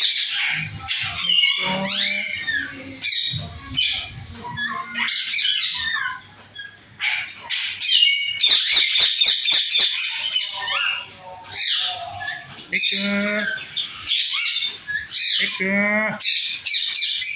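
Pet parrots squawking and chirping in rapid, overlapping calls, with a few rising, sweeping calls near the end.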